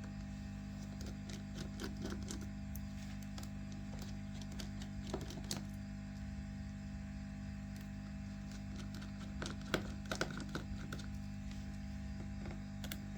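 Small, irregular clicks and taps of a precision screwdriver and tools working the tiny screws of a smartphone's frame, the loudest few about ten seconds in, over a steady low hum.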